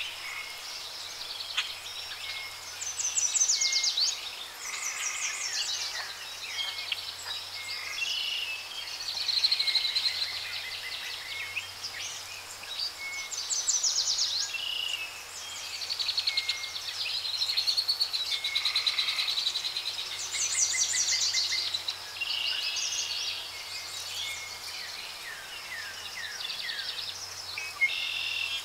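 Birds singing in the background: bright chirping phrases and fast trills that come back every few seconds, over a faint steady low hum.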